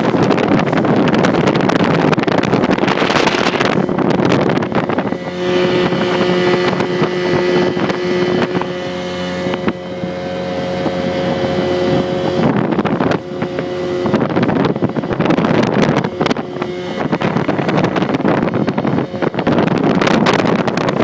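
Small speedboat's 85 hp outboard motor running, under heavy wind noise on the microphone and rushing water. For several seconds in the middle the wind drops and the motor's steady hum comes through clearly, then the wind noise takes over again.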